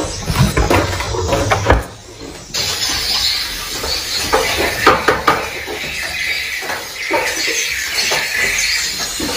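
Many swiftlets chirping and clicking in a dense, continuous twitter, filling in after a brief dip about two and a half seconds in; low knocks come in the first two seconds.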